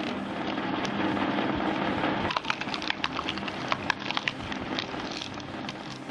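Wood cracking and splintering as a heavy machine breaks it up, over the steady drone of the machine. Sharp cracks come thick and fast from about two seconds in.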